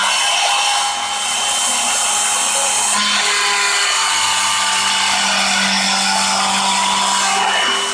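A power tool running continuously under load, with a steady whine over a rough cutting noise.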